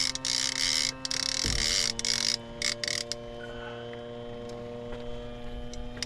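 A boat's outboard motor runs with a steady hum that drops slightly in pitch about a second and a half in. Over the first couple of seconds a fishing reel ratchets in loud bursts as an angler fights a bull shark.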